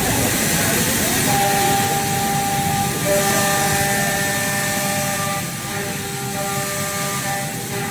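CNC milling machine at work: a steady loud hiss with several steady tones over it that come and go.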